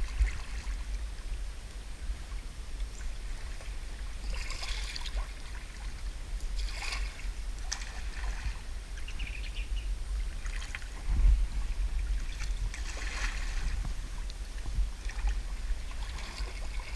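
Sea kayak paddle dipping and splashing in the water, a stroke every couple of seconds, over a steady low rumble.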